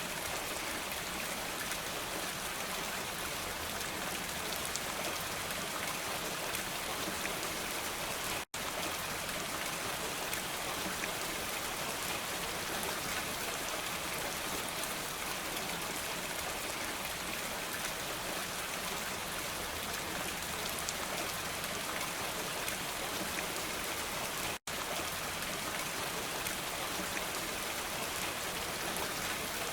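Steady, even rain falling, a dense hiss of drops with no thunder. The sound cuts out for an instant twice, about eight and twenty-five seconds in.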